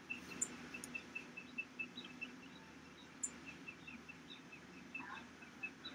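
A small bird calling: an evenly spaced series of short high chirps, about four or five a second, over a faint steady low outdoor hum, with a few sharp high ticks.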